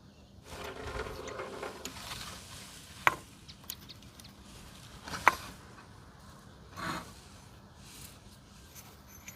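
Workshop handling noises: a rubbing scrape for about a second and a half, then two sharp clicks about two seconds apart and a short dull knock.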